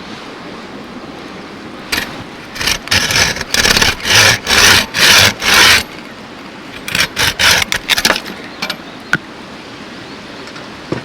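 Wood being cut with a hand saw: two runs of rasping strokes, about two a second at first and quicker in the second run, over the steady rush of a nearby stream. A few sharp clicks follow.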